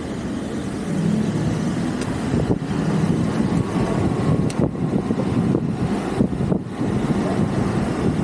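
Steady rumble of city traffic and wind noise heard from a moving e-bike, dropping out briefly a few times.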